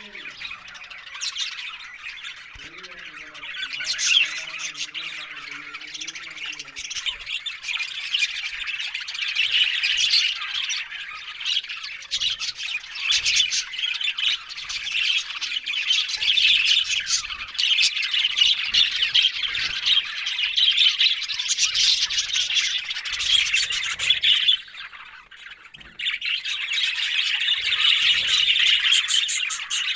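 A colony of budgerigars (budgies) in an aviary chattering, warbling and squawking all at once in a dense, continuous chorus. The chorus drops away sharply for about a second and a half near the end, then resumes.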